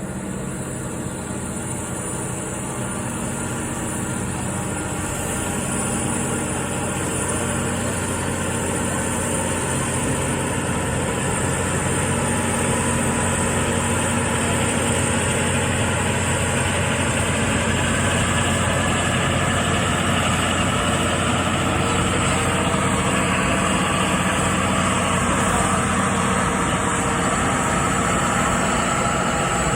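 Mount Washington Cog Railway locomotive climbing toward the summit, its engine running steadily and growing gradually louder as it approaches.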